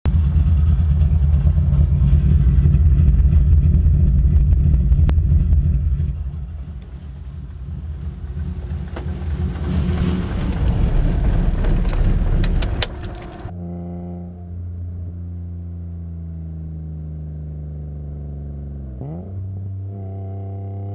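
BMW E30's M50 inline-six with aftermarket camshafts idling, loud and close; its level drops about six seconds in, and a quick run of sharp clicks comes near its end. About thirteen seconds in it cuts off abruptly and a steady droning tone of several pitches takes over, dipping and rising again near the end.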